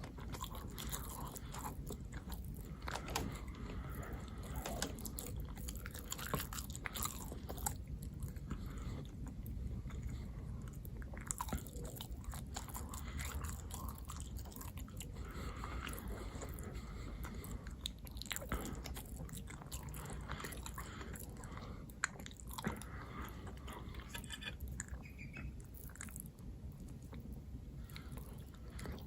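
Close-miked chewing and biting: irregular wet mouth clicks and crunches of a person eating.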